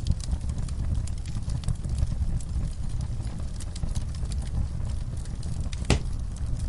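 Wood fire burning in a fireplace: a steady low rumble of flames with frequent small crackles and pops, and one louder sharp crack about six seconds in.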